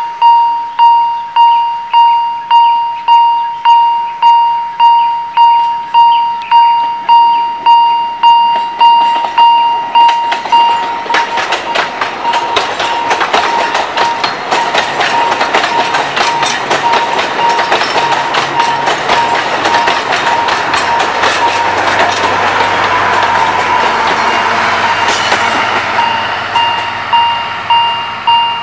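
A level-crossing warning bell dings about twice a second. Then a narrow-gauge Alishan Forest Railway train rolls past, a dense run of rapid wheel clicks over the rail joints and a rumble that drowns the bell for about fifteen seconds. The bell dings clearly again near the end.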